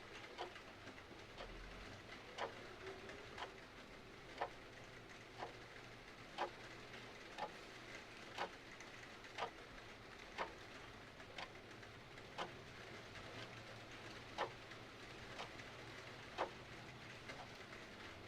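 A mechanical clock ticking about once a second, some ticks louder than others, over a steady hiss of rain.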